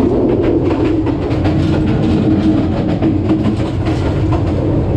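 Upaban Express passenger train running along the track: a loud, steady rumble with repeated clicks of the wheels over the rails.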